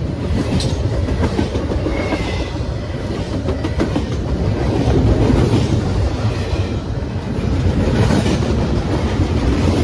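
Train rolling past close by, a steady loud rumble with the wheels clicking over the rail joints and a brief thin squeal about two seconds in.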